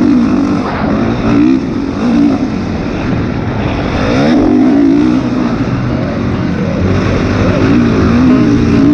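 Honda CRF450 single-cylinder four-stroke dirt bike engine being ridden hard, the revs rising and falling again and again as it accelerates and shifts.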